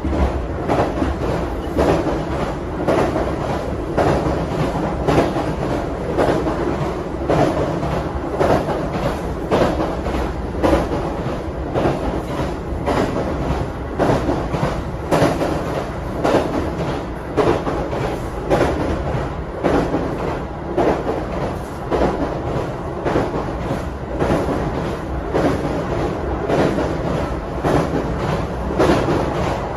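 Train running on the rails, its wheels clattering over rail joints again and again over a steady rumble.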